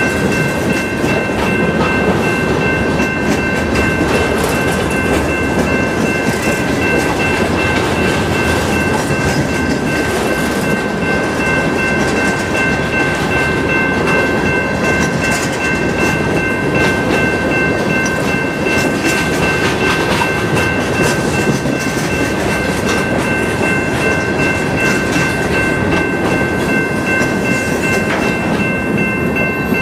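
Freight train cars rolling past at close range, a steady dense rumble and rattle of wheels on rail, with a steady high-pitched squeal over it.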